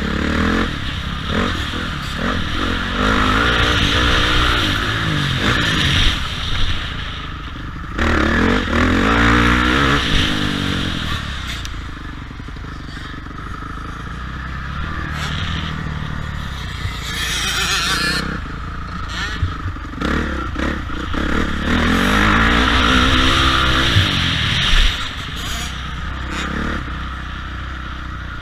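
Motocross bike engines revving hard and easing off in repeated rising and falling surges, as on a dirt track.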